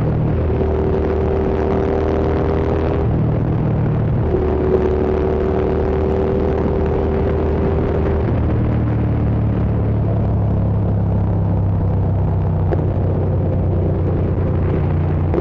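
Hyosung GT650's 647 cc V-twin engine running under way at a steady level, its note shifting in pitch about three seconds in and again about eight seconds in.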